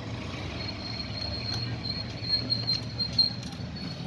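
Steady low hum with a thin, high-pitched whine that sets in about half a second in, and a few faint light clicks.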